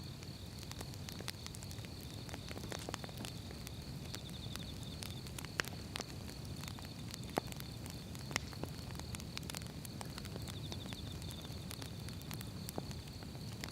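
Firewood burning: a steady low rush of flames with scattered crackles throughout and a few sharper pops, the loudest about 5.5, 7.5 and 8.5 seconds in.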